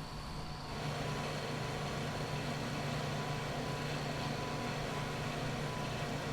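An engine running steadily with a low hum, getting louder about a second in and then holding level.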